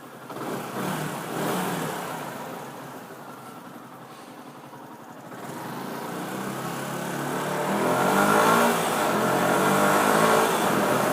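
Yamaha YZF-R125's single-cylinder 125 cc four-stroke engine on its stock exhaust revving: a short swell about a second in, then a longer rise in pitch and loudness from about halfway, loudest near the end.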